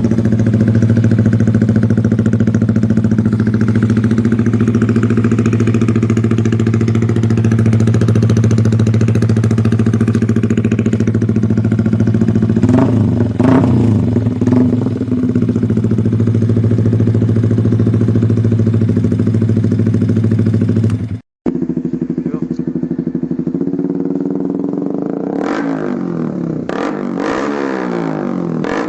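Yamaha R15 V3's single-cylinder engine idling steadily through an aftermarket exhaust, with a few brief throttle blips about halfway. After a sudden break about 21 seconds in it idles again and is revved up and down several times near the end.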